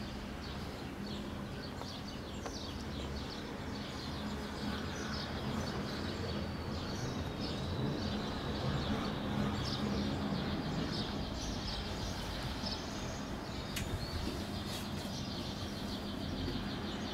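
Small birds chirping over and over, against a steady low hum and outdoor background noise.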